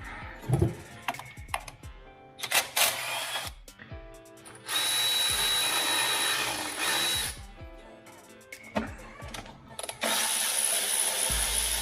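Power drill running in two bursts of a couple of seconds each, a steady whir with a thin high whine, probably driving out bolts; before them, scattered knocks and clicks of tools being handled.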